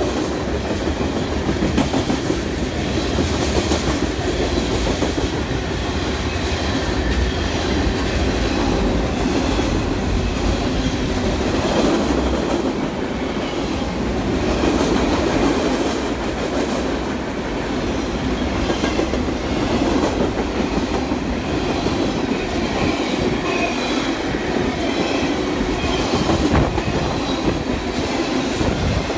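Train running past on the tracks: steady, loud wheel-on-rail noise with clicking over the rail joints, holding at an even level throughout.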